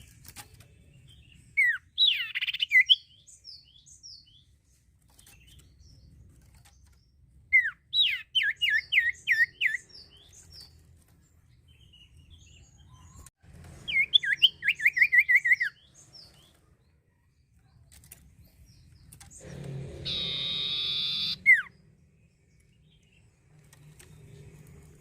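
Common iora (cipoh) singing: three bursts of quick, sweeping whistled notes, each burst about a second and a half long with several notes a second. Near the end comes a harsh buzzing sound about two seconds long.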